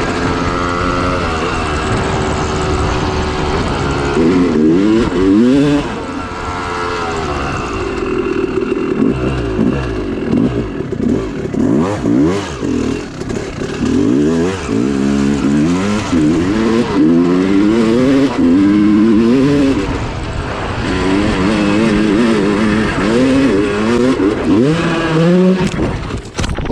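Dirt bike engine revving up and falling back over and over as the bike is ridden, the pitch climbing and dropping every second or two.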